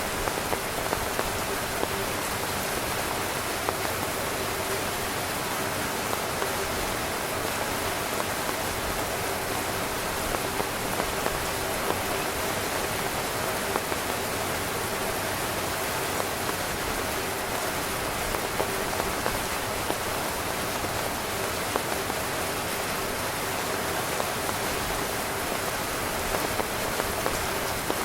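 Steady rain falling on a tent, a dense even hiss with many small drop ticks throughout.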